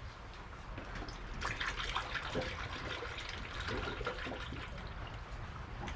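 Antifreeze coolant being poured from a jug through a funnel into the engine's cooling system, a steady trickling pour that gets stronger about a second and a half in, with some gurgling.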